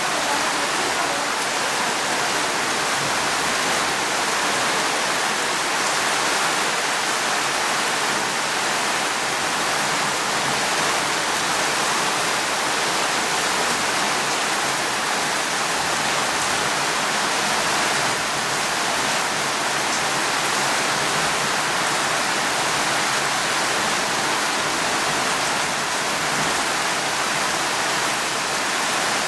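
Steady rain falling, an even hiss that stays constant throughout, with no thunder.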